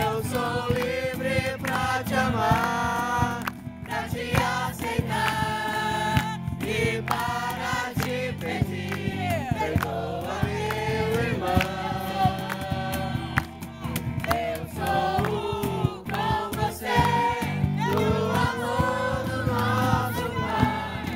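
Group of voices singing a Portuguese Christian worship song over steady instrumental accompaniment.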